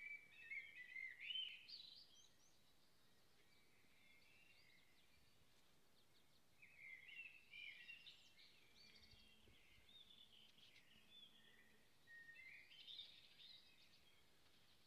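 Faint bird chirps and twitters in three short bouts, each a couple of seconds long, over a quiet outdoor hush.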